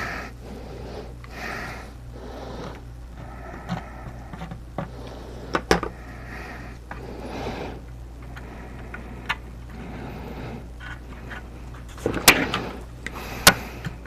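Objects being handled at a workbench: scattered clicks and knocks, sharper ones about halfway through and near the end, over a steady low hum.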